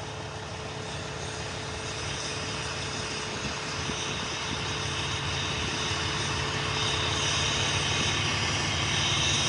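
Steady rumble and hiss of vehicle engines and traffic with a constant low hum underneath, slowly growing louder over several seconds.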